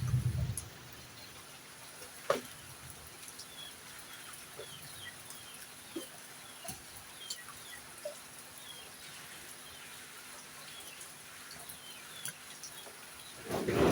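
Young poultry peeping over and over in short high chirps, with a few clucks and sharp clicks, over the steady hiss of heavy rain. A rumble of thunder builds right at the end.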